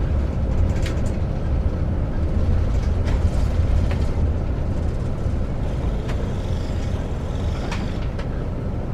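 Airport limousine bus running, heard from inside the cabin: a steady low engine and road rumble with a few faint clicks.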